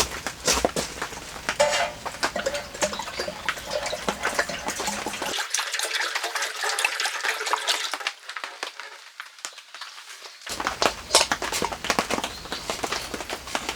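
Rain falling steadily, a dense hiss of water full of sharp drop impacts.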